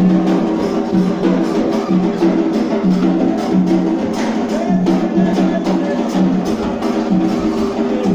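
Afro-Brazilian ritual music: drums beating a steady, even rhythm under a held, repeating melody.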